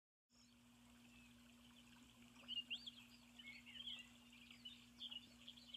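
Faint birds chirping and twittering in short, scattered calls from about two seconds in, over a steady low hum.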